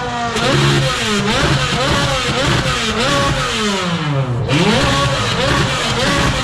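Car engine revved hard over and over, the pitch climbing and dropping again in quick succession, with one longer rise and fall a little past the middle.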